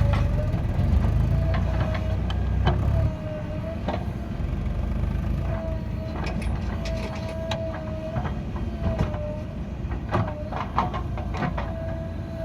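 Heavy diesel vehicle running, loudest for the first three seconds, with a repeating high tone that dips in pitch about once a second and scattered metallic knocks and clanks, most of them near the end.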